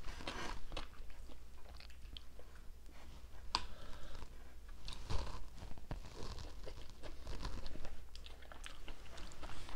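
Chewing and crunching of a mouthful of casserole topped with shredded lettuce, a run of small irregular crunches. A sharp click about three and a half seconds in as the wooden fork goes into the glass baking dish.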